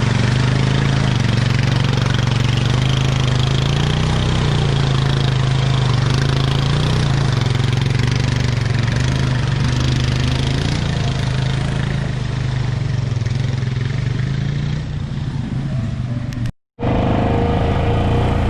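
ATV engine running with small rises and falls in pitch as the throttle changes. The sound cuts out to silence for a moment near the end, then the engine is heard again.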